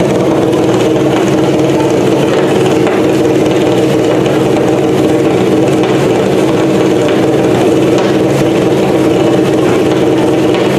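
Rally car engine idling loudly and steadily, holding the same pitch throughout.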